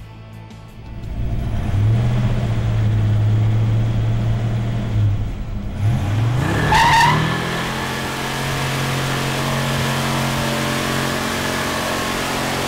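1969 Dodge Super Bee's 440 Six Pack V8 held at high revs in a burnout, rear tires spinning. Louder from about a second in. About six seconds in the revs climb again with a brief high squeal, then the engine holds steady.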